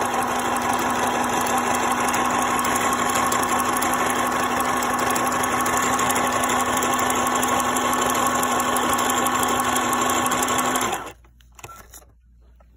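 New Home Janome mini sewing machine running at a steady speed under its foot pedal, stitching a small zigzag with an even motor whine. It stops abruptly about eleven seconds in.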